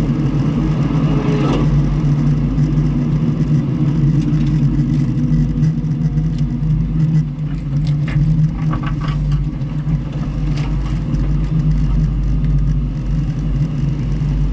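Car engine running at a steady speed, an even low drone with no revving. A few light clicks come through around the middle.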